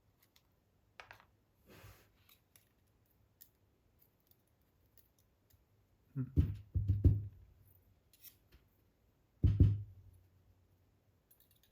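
Small metal clicks and scrapes of tweezers working the remaining springs out of a lock cylinder's pin chambers. There is a short cluster of heavier knocks about six seconds in and one more knock about three seconds later.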